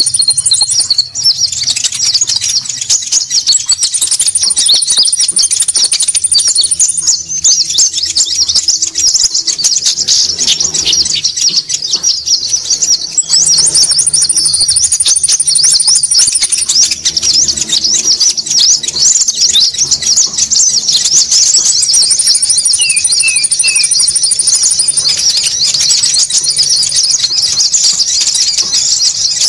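Small songbirds calling busily, the noisy konin lure call used to draw birds in: a dense run of rapid, overlapping chirps and twitters, with a very high, even trill that starts and stops every few seconds.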